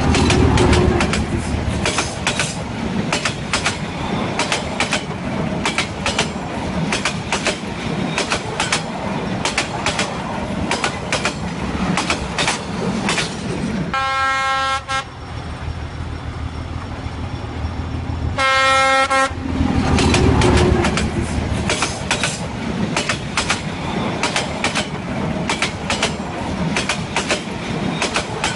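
A train led by the Union Pacific 844 steam locomotive passing close by, with a yellow diesel in the consist, its wheels and running gear making fast, steady clickety-clack and clanking over a low rumble. Two short chime whistle blasts sound about halfway through, some four seconds apart.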